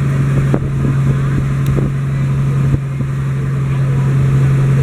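A passenger boat's engine running steadily with a constant low drone, with a few short knocks about half a second, two seconds and three seconds in.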